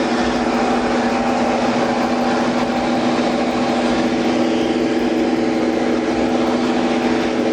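A vehicle engine running steadily close by: an even, loud drone with several steady tones.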